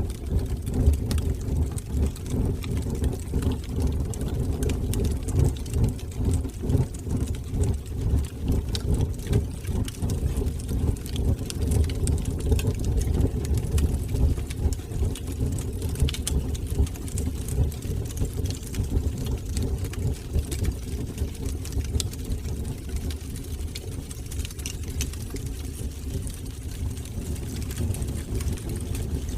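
Wood fire burning in a fireplace: a steady low rumble of the flames with frequent small crackles and pops throughout.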